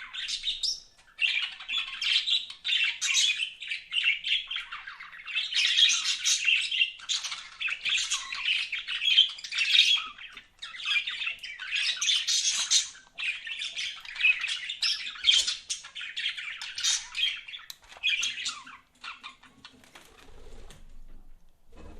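Budgerigars chattering, a fast unbroken run of short high chirps and squawks that thins out and falls quieter near the end.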